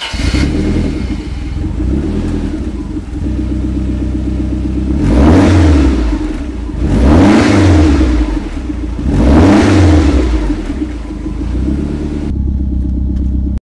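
Lancia car engine idling and revved three times, each rev rising and falling back to idle; the sound cuts off suddenly near the end.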